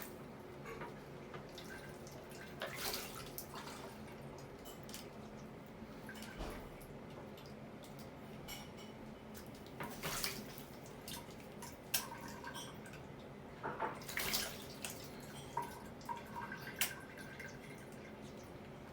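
A Quaker parrot bathing, splashing water in a few short bursts with small drips and patters in between.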